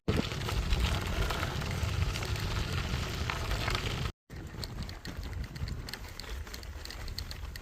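Bicycle rattling and rumbling over a rough, bumpy dirt trail. The noise cuts off abruptly about four seconds in and comes back quieter, with light clicking.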